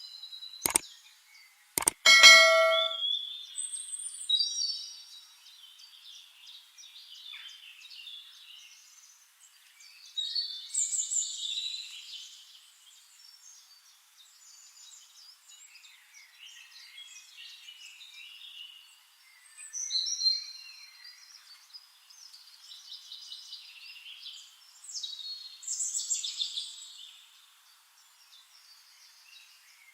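Songbirds singing in intermittent chirping phrases, with louder bursts about a third of the way in, around two-thirds and again near the end. Near the start, two sharp clicks and a brief metallic ring like a small bell.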